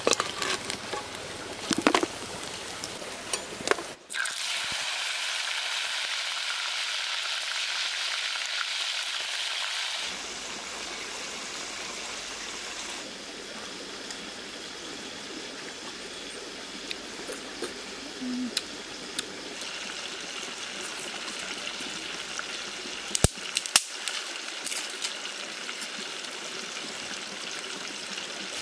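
Frogs and banana plant frying in a clay pot over a wood fire, sizzling, with a ladle stirring and knocking against the pot now and then. The sizzle is loudest and steadiest from about four to ten seconds in.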